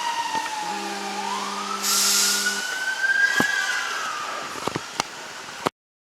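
Fire truck siren wailing, its pitch dipping and then climbing slowly, with a horn blast of about two seconds starting just under a second in. A few sharp clicks follow, and the sound cuts off suddenly near the end.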